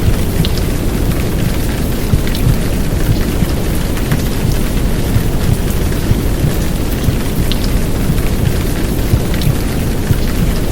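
Heavy downpour rain, a dense steady hiss with a few sharper drop ticks, layered over a deep, steady low rumble of womb sound for soothing a baby to sleep.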